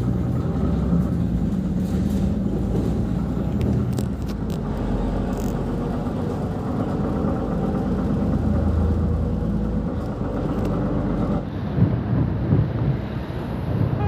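Steady low din of motor-vehicle engines running, a busy street's traffic noise.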